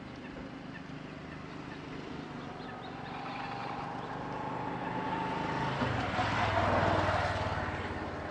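A motor vehicle passing: a low engine hum grows louder to a peak about seven seconds in, then eases off.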